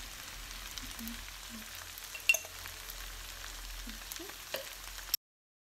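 Carrots, broccoli and chicken sizzling steadily as they stir-fry in a non-stick frying pan, with a few sharp clicks, the loudest about two seconds in. The sound cuts off abruptly near the end.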